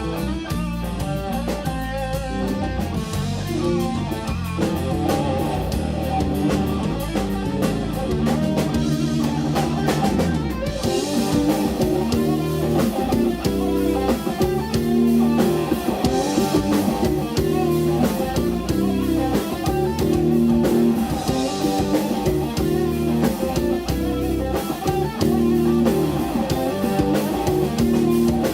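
A live rock band playing an instrumental progressive song: electric guitar with a drum kit keeping a steady beat.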